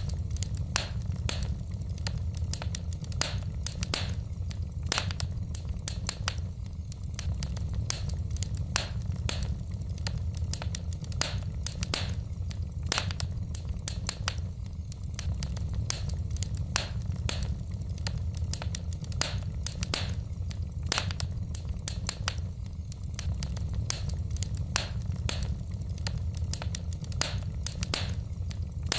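Wood fire in a fireplace crackling: frequent irregular sharp snaps and pops of burning logs over a steady low rumble of the flames.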